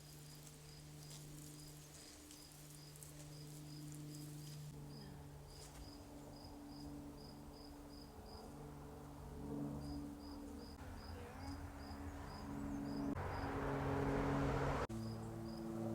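A cricket chirping in a steady rhythm of about three short high chirps a second, pausing twice, over a low steady hum. A hiss builds through the middle, is loudest near the end and cuts off suddenly.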